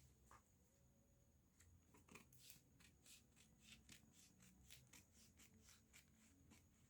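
Faint rustling and small clicks of paper pattern pieces being handled and laid together on a table, thickest through the middle.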